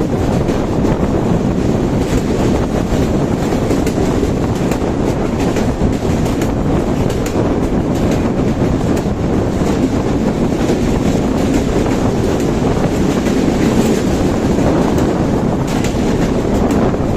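Moving train running on the rails: a steady loud rumble with frequent short irregular clicks from the wheels.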